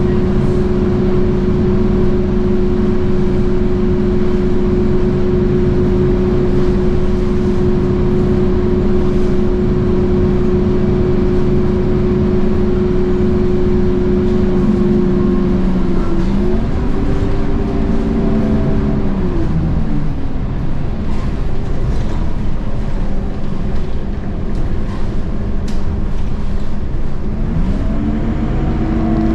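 Scania K230UB bus's DC9 diesel engine, with its ZF Ecomat automatic gearbox, pulling under load at steady high revs. About halfway through the pitch lifts briefly and then winds down, the engine tone fades under the road noise, and near the end the revs climb again as the bus accelerates.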